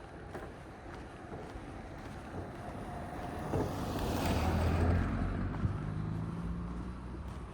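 A road vehicle passing along the street: its noise swells to a peak about four to five seconds in and then eases, leaving a low engine hum.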